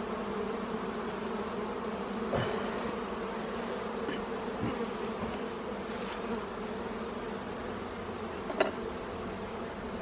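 Honeybee colony buzzing steadily around an opened hive, with two short knocks, about two seconds in and near the end.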